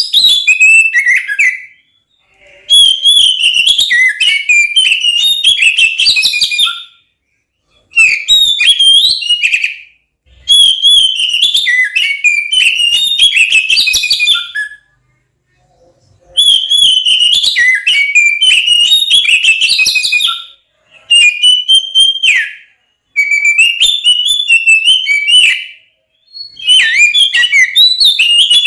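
Oriental magpie-robin (kacer) singing loud, fast, varied whistled phrases in its agitated fighting-mode song, in repeated bursts of a few seconds broken by short pauses.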